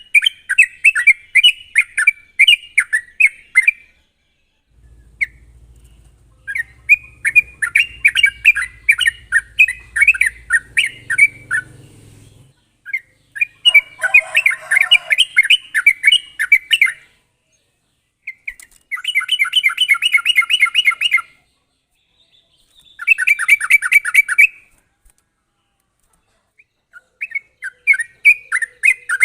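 Yellow-vented bulbul (trucuk) singing energetically in fast, sharp runs of chattering notes. The phrases last a few seconds, with short pauses between them, and two denser rapid trills come in the second half.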